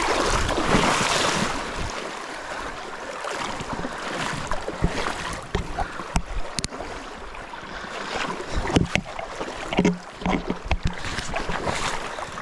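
River water rushing and splashing, louder in the first couple of seconds, with scattered knocks.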